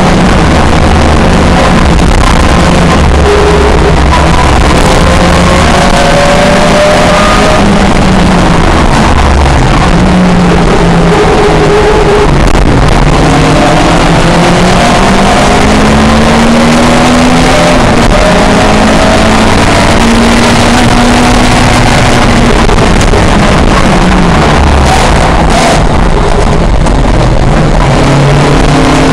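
Historic touring car racing engines running hard at full race pace, their pitch rising and falling again and again as they rev up and shift through the gears. The sound is loud and unbroken.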